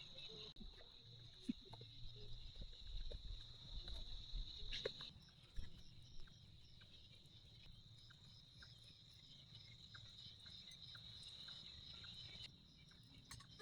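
Crickets trilling steadily and faintly at one high pitch, with evenly repeating chirps above it in the second half; the trill stops near the end. A few soft knocks and a low rumble in the first half.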